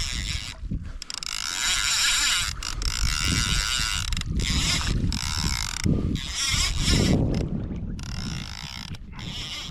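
Fishing reel's drag and gears buzzing in repeated spells of about a second each while a heavy snapper is played on the line.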